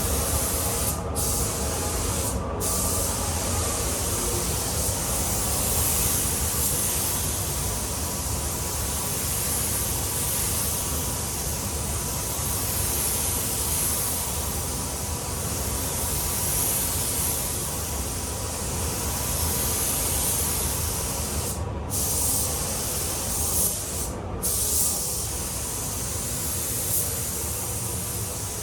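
Paint spray gun hissing steadily as it sprays wet-on-wet primer at about 2 bar, the hiss cutting out briefly four times. A steady low rumble runs beneath.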